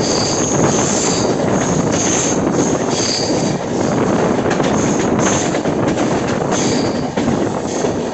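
Passenger train running on the rails with a steady rumble, its wheels squealing in short high-pitched bursts several times.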